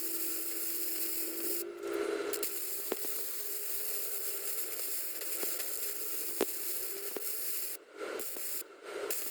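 Small flux-core wire welder arc crackling and hissing as a bead is laid. It stops briefly a few times where the trigger is let off and restarted.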